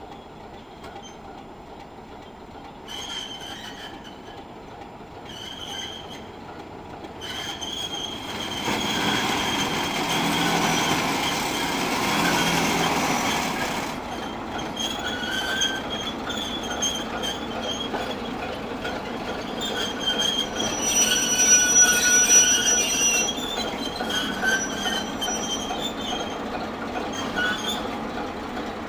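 Class 751 diesel locomotive rolling slowly on depot track, its wheels squealing intermittently in high, wavering tones, with a louder stretch of running noise about eight to fourteen seconds in.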